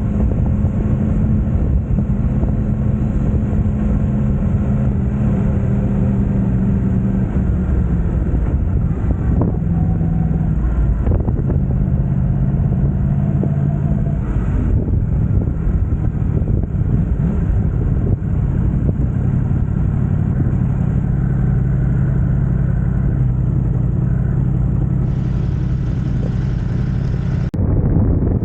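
Yamaha YZF-R1 crossplane inline-four engine running through an Akrapovic exhaust, a steady low engine note that shifts in pitch several times and changes abruptly near the end.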